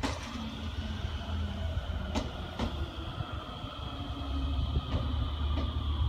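Out-of-service Hokuhoku Line single-car train moving slowly through the station tracks: a steady low rumble, a thin high whine drifting slowly down in pitch, and a few sharp clicks of wheels over rail joints.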